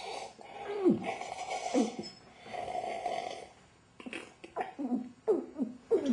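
A person making exaggerated snoring noises: rasping breaths about a second long, each with a falling groan. In the last two seconds they give way to a quick run of short falling vocal squeaks.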